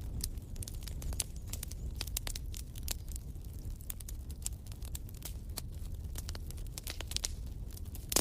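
Wood fire crackling in a fireplace: irregular sharp pops and snaps over a steady low rumble of the flames, with one louder pop at the very end.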